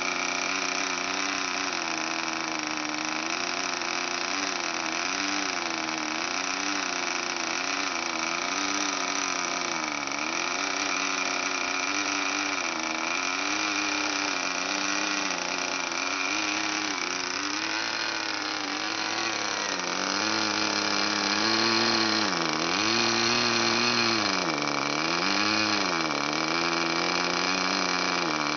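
K&B .40 two-stroke glow model-aircraft engine running with a 10x6 propeller, its speed wavering and dipping several times before picking up again, a little louder in the last third. It is a new engine being tuned during running-in.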